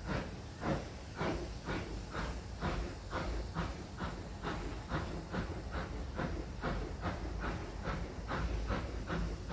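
Steam locomotive working, its exhaust beats coming about twice a second and quickening slightly.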